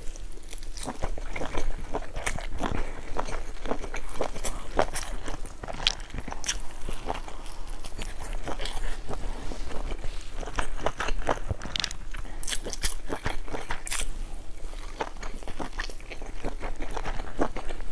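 Mouth sounds of a person eating large pleated dumplings: bites and chewing made up of many short, sharp, irregular clicks.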